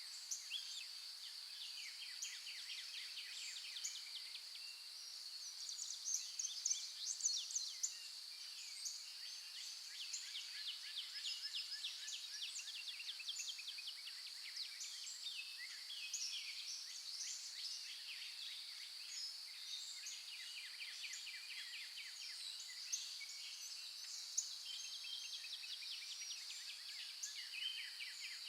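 Dawn chorus of several songbirds chirping and trilling, with many short rapid notes throughout, over a steady high-pitched hiss.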